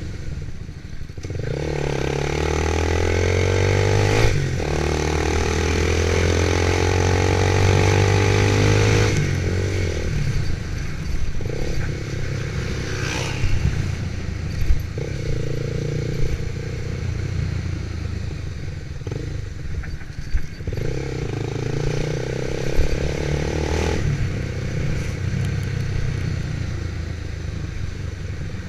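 Motorcycle engine running while riding. Its pitch rises as it speeds up a couple of seconds in, holds steady, then shifts up and down several times as the speed changes.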